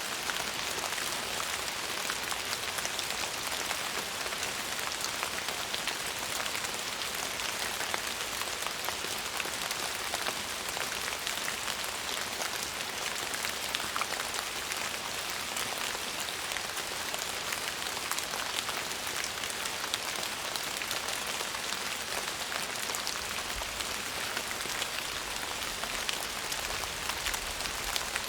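Steady rain falling, an even hiss dense with small drop ticks.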